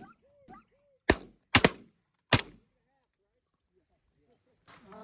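Shotguns firing at ducks: three sharp shots in about a second and a half, starting about a second in.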